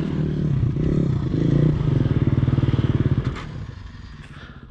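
Dirt bike engine running in a strong, even pulsing beat as the bike is worked up a snowy trail, then falling away about three seconds in.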